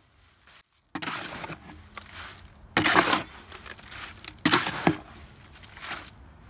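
Concrete being mixed by hand: a mixing tool scraping and chopping through the gritty mix in irregular strokes, the loudest about three seconds in and again about four and a half seconds in.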